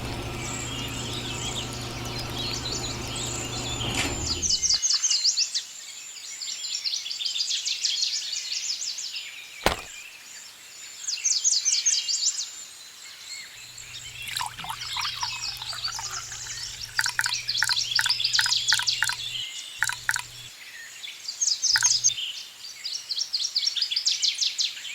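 Small birds chirping in quick repeated trills, with a low steady hum of a small motor during the first few seconds and again from about halfway, where it cuts out and restarts a few times near the end. A single sharp click about ten seconds in.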